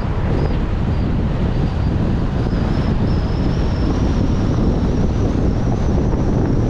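Wind buffeting the microphone over the steady road and engine noise of a car driving, with a faint, thin high-pitched whine that wavers slightly and steadies from about halfway through.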